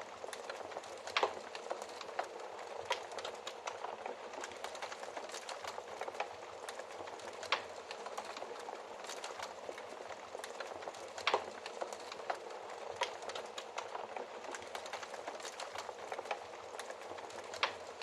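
Wood fire crackling steadily over a soft hiss, with scattered sharper pops. The loudest pops come about a second in, at about seven and a half and eleven seconds, and near the end.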